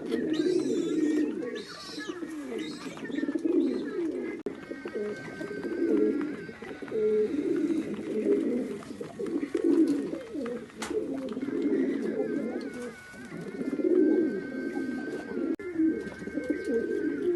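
Pigeons cooing: low, throaty coos repeated every second or two. A faint thin wavering whistle sounds behind them, and there is one sharp click about two-thirds of the way through.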